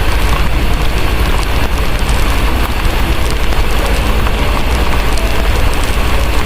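Steady heavy rain mixed with a crackling wood fire, small crackles ticking over the rain, over a constant low rumble.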